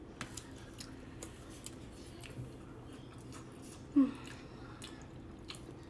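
Quiet eating sounds as fried chicken and pasta are eaten from paper plates: light clicks and chewing, with a short voiced sound about four seconds in.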